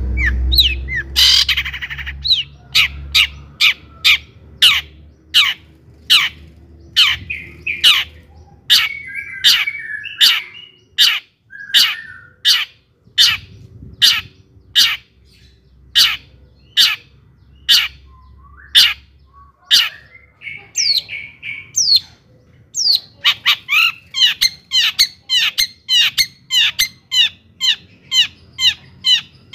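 Long-tailed shrike (cendet) singing: a steady series of sharp, downward-sweeping notes, about one to two a second, with harsh raspy notes mixed in. The song turns into a quicker, busier run of notes in the last several seconds.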